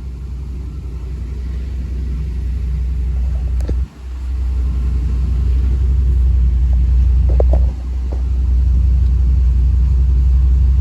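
1993 Chevrolet Suburban's 5.7-litre 350 small-block V8 running steadily with a low rumble, briefly dipping about four seconds in and again near eight seconds.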